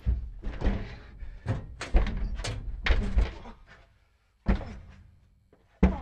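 Heavy thuds and bangs against a phone box door: a quick irregular run of knocks over the first three seconds, then two single harder thuds a little over a second apart, each dying away briefly.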